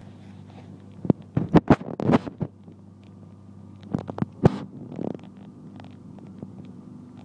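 Moving train with a steady low hum, broken by clusters of sharp clicks and knocks about a second in and again around four seconds in.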